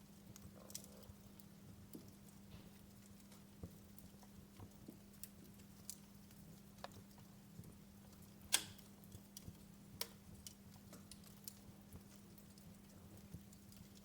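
Wood fire crackling in a fireplace: faint, irregular small pops and snaps, with one sharper pop about eight and a half seconds in, over a steady low hum.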